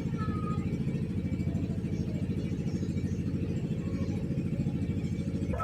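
A steady low engine-like rumble with a fast even pulse, running throughout.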